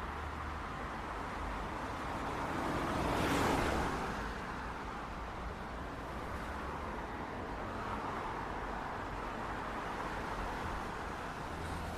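City street traffic: a steady wash of car tyres and engines, with one vehicle passing close about three seconds in.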